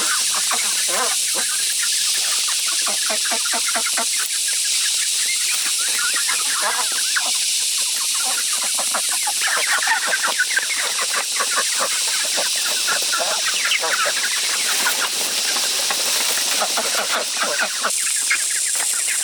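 A flock of poultry calling: many short, overlapping clucks and calls one after another, over a steady high hiss.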